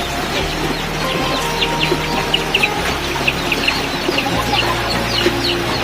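Domestic chickens clucking, with many short, high peeping calls several times a second, over background music with a low bass line.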